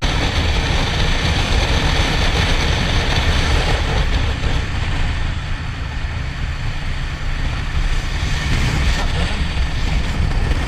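Motorcycle ride at speed: steady rush of wind and road noise, loudest in the low end.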